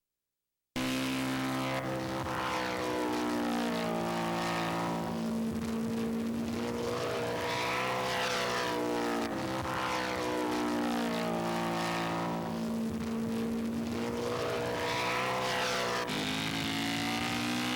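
Propeller engines of radio-control scale model airplanes flying past, the pitch rising and falling with each pass, several times over. The sound starts abruptly under a second in.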